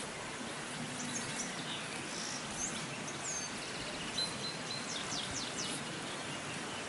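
Birds chirping and calling over a steady outdoor hiss, with a quick run of short high notes about five seconds in.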